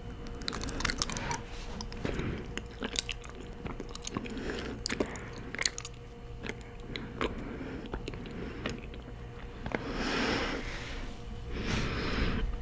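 Close-miked chewing of honeycomb: wet, sticky mouth clicks and smacks as the wax comb is bitten and chewed, with two soft hissing swells near the end.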